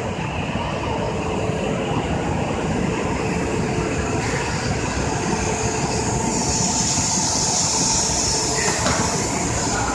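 An E7 series Shinkansen train pulling out of a station and gathering speed past the platform: a steady rumble of wheels and running gear, with a high hiss that swells from about six seconds in.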